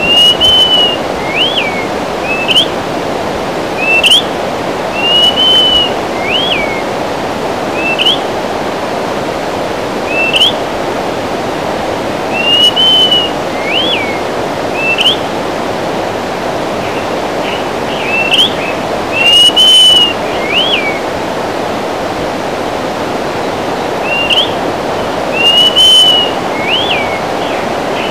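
Greater pewee singing: a slurred, arched whistle followed by a quick rising-and-falling note, the phrase repeated five times about every six to seven seconds, with single short rising whistles in between. A steady rushing noise runs underneath.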